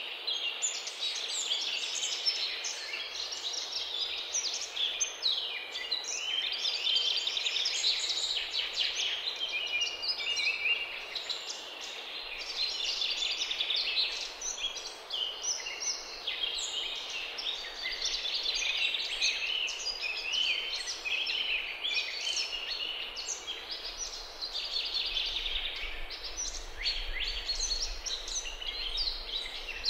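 Birds chirping and peeping densely and without a break, many short high calls overlapping.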